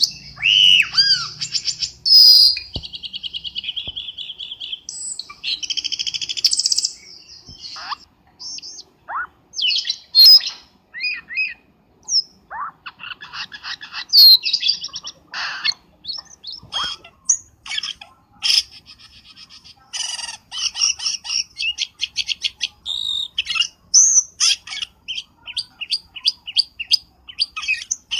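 Cucak keling bird calling, as used for a lure call: varied whistled and chattering phrases with gliding notes, turning about two-thirds of the way through into a fast run of short, repeated notes, several a second.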